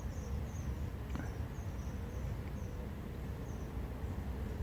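A small bird giving a series of short, high chirps, irregularly spaced and a few a second, fading out after about three seconds, over a steady low outdoor rumble.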